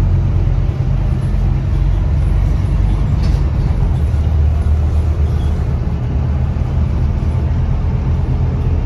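Scania K320UB bus's five-cylinder diesel engine running steadily under way, a low drone that swells briefly about halfway through.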